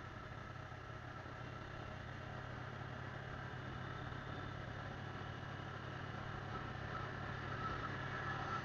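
Motorcycle engine running steadily while riding, a low hum with a thin whine that grows louder near the end.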